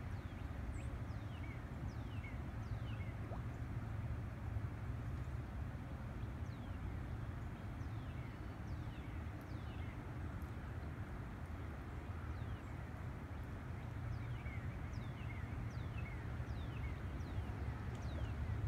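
Birds chirping, a scattering of short calls each sliding quickly downward in pitch, over a steady low rumble.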